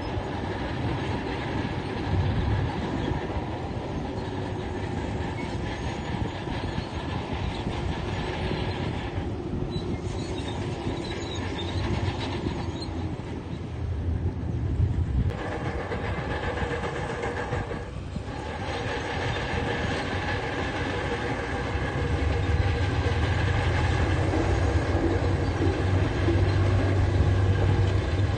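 Diesel engine of a tracked earthmoving machine running under load, with its steel tracks clanking as it moves; the low rumble grows louder near the end.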